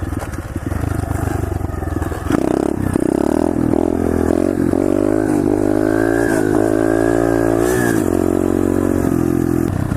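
SSR 125cc pit bike's single-cylinder four-stroke engine being ridden: it runs low, revs up about two seconds in, holds a steady higher note, then eases off about eight seconds in.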